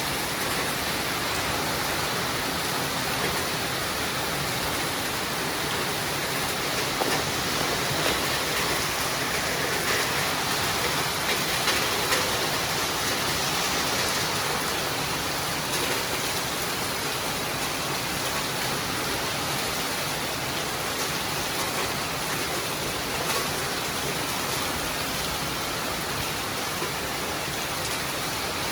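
Steady rain falling, an even hiss with no let-up, with a few faint taps of drops here and there.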